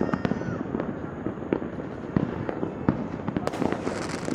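Many fireworks and firecrackers going off at once all around, a continuous irregular crackle of pops and bangs with a few sharper reports standing out.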